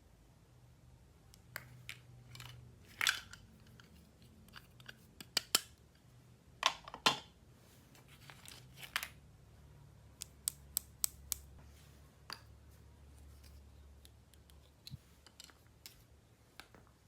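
Scattered clicks, snips and short rustles of plastic toys and packaging being handled and opened, the loudest about three and seven seconds in, with a quick run of small ticks around ten to eleven seconds.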